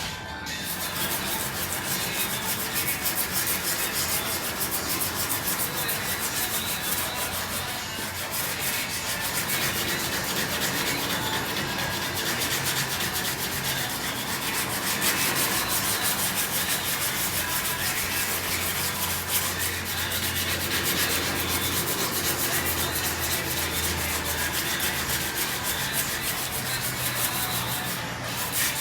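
Steel body panel being sanded smooth over the welded-up fuel filler hole: a steady, continuous rasping noise.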